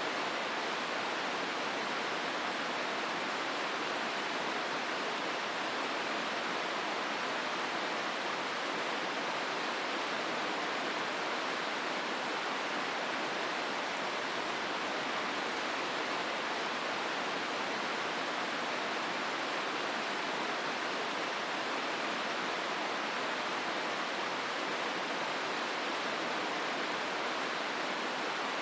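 The Hozu River rushing through its gorge: a steady, even rush of flowing water that does not change.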